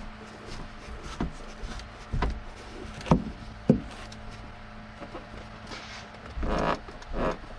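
A few sharp knocks and clunks, the loudest two about half a second apart in the middle, then two short rustling scrapes near the end, over a steady low hum.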